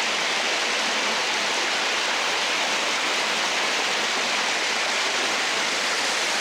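Steady rush of a waterfall and brook water tumbling over rocks, an even hiss at constant level.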